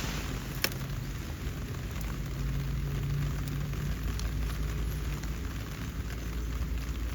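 Steady rain pattering, with a few sharp single ticks of drops, the clearest about two-thirds of a second in.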